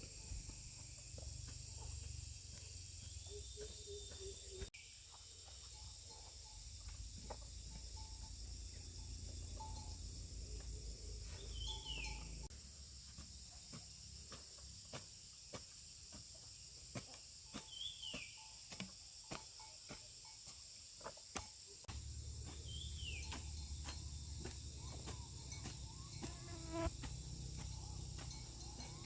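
Insects droning steadily in the countryside, with a bird's short falling call repeated about every six seconds and scattered light knocks and taps.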